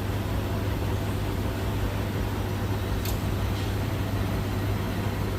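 Beko WS832425s washing machine spinning with an unbalanced load, a steady low hum and vibration, with a short tick about three seconds in.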